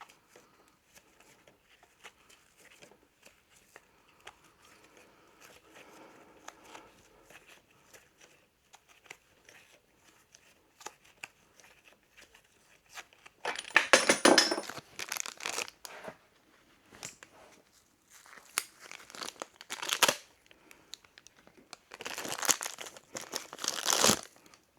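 Wrapping being torn and crinkled in three loud bouts, about halfway through, around three-quarters through and near the end, after a quieter stretch of light clicks and handling.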